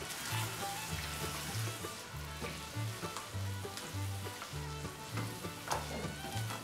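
Chicken pieces in a yogurt-and-cream marinade sizzling in a hot wok while a spatula stirs them, with small clicks of the spatula against the pan. Soft background music with a repeating bass line runs underneath.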